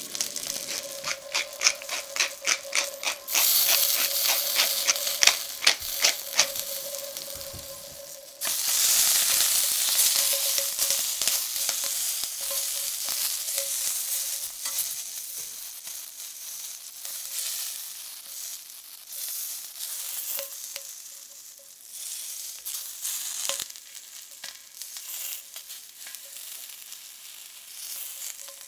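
Bell pepper pieces sizzling in oil in a stainless steel pan, with sharp crackles and pops, stirred with wooden chopsticks. The sizzle turns loud after a few seconds, dips briefly, and fades gradually through the second half.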